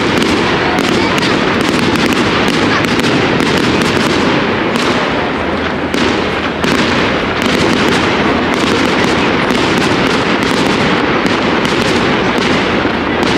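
Fireworks display going off in a dense, continuous barrage of overlapping bangs and crackles.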